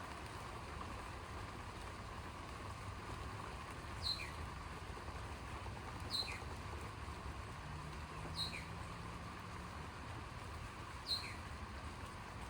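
A bird calling four times, a short sharp downward-sweeping call with a quick lower note after it, repeated every two to three seconds over a steady background hiss and low rumble.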